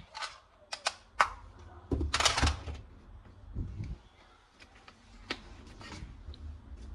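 Scattered sharp plastic clicks and knocks from toy guns being handled, with a short clattering rattle about two seconds in.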